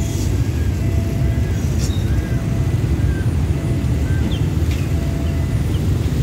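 Steady low rumble of a container freight train hauled by an Alsthom diesel-electric locomotive pulling away, with short high tones repeating about once a second over it.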